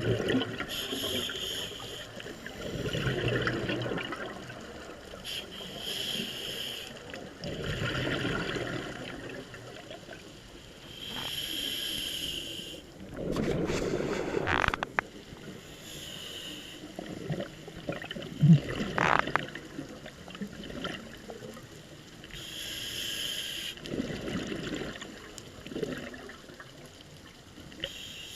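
Scuba diver breathing through a regulator underwater: a hissing inhale, then a bubbling exhale, repeating every few seconds. A single sharp knock stands out about two-thirds of the way through.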